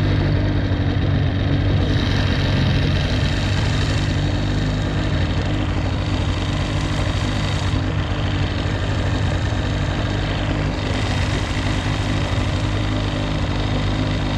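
Small boat's motor running steadily at an even pitch.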